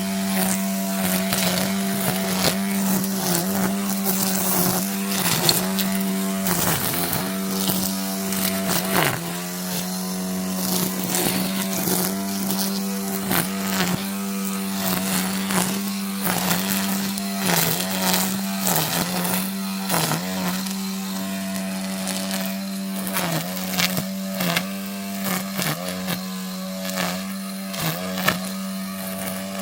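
Battery-powered brush cutter running at a steady high pitch, its motor note dipping briefly again and again as it bites into vegetation, with many sharp ticks and snaps of stems and debris hitting the cutting head.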